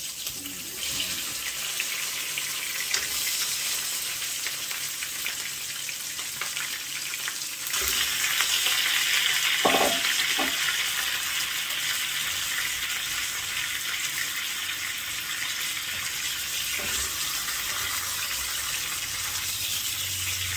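Ground spice paste, lemongrass and leaves sizzling in hot oil in a wok as they are tipped in and sautéed with a spatula. The sizzle starts suddenly as the spices hit the oil and grows louder about eight seconds in.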